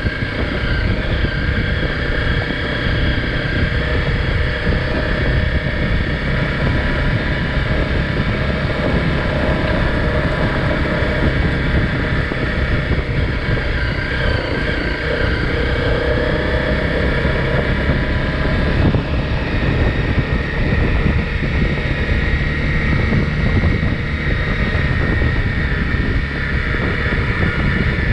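Single-cylinder off-road vehicle engine running steadily while riding.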